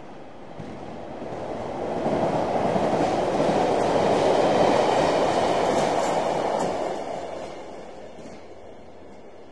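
A train passing by: its rolling noise swells to a peak near the middle and fades away again.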